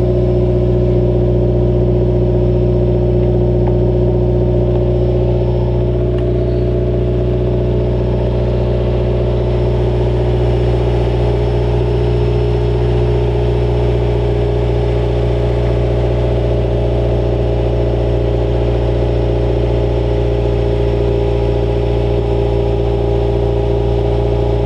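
Subaru WRX turbocharged flat-four idling steadily through a freshly fitted Agency Power catback exhaust with quad tips, a nice deep tone.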